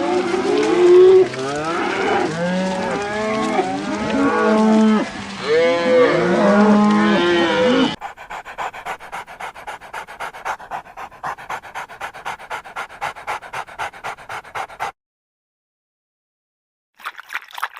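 A group of animals calling at once: many short rising-and-falling calls overlapping for about eight seconds. Then a fast, rhythmic pulsing sound, about five pulses a second, that stops suddenly, and after a short silence another sound begins at the very end.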